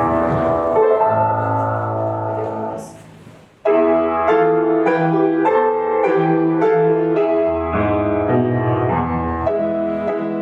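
Piano playing chords in a steady, dance-like rhythm. It fades out about three seconds in and starts again sharply just under a second later.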